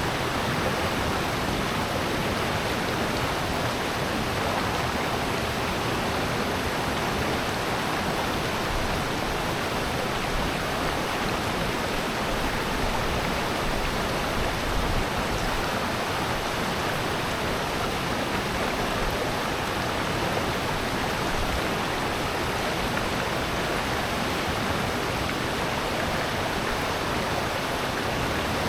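Valley stream water rushing in a steady, unbroken noise.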